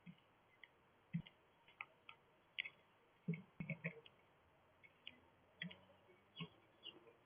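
Irregular light clicks and taps, about a dozen spread across several seconds, some with a soft low thud.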